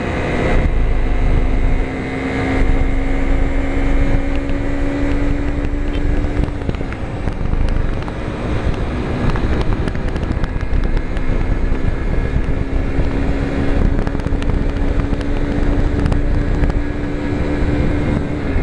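Small low-displacement motorcycle engine running at road speed, with wind buffeting the microphone. The engine note holds steady, breaks briefly about six seconds in, then slowly climbs as the bike gathers speed.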